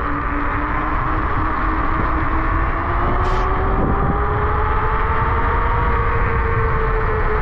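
Electric scooter's motor whining while riding, the whine rising slowly in pitch partway through as it speeds up, over a steady low rumble.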